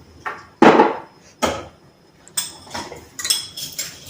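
Kitchen utensils clinking and knocking: a spoon or container striking a cooking pot in about seven short, sharp knocks, the loudest about two-thirds of a second in.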